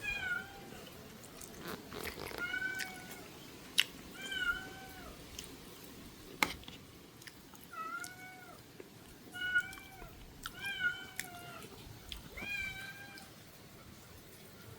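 Domestic cat meowing repeatedly, about seven short meows, each rising then falling in pitch. A few sharp clicks fall between the meows.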